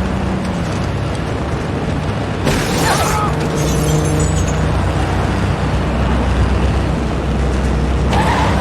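Film sound mix of vehicles driving at speed: engines running with a steady low hum under a dense rushing noise, and a sudden loud burst about two and a half seconds in.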